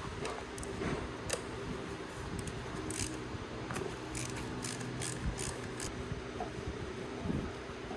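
Scattered light clicks and taps of hand tools and metal parts being handled, over a steady low hum.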